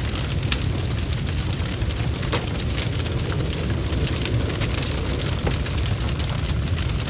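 Bonfire crackling: a steady low rush of flame with frequent sharp, irregular pops and snaps.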